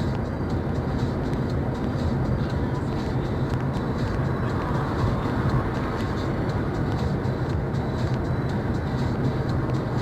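Steady road noise and engine drone of a car in motion, heard from a dash camera.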